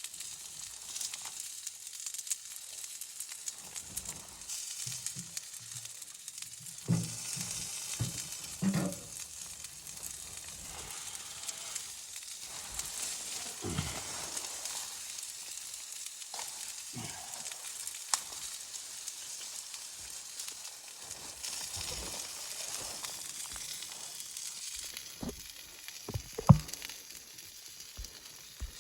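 Food sizzling steadily in a hot pan, with occasional short knocks and scrapes of a utensil being stirred. The loudest is a sharp knock near the end.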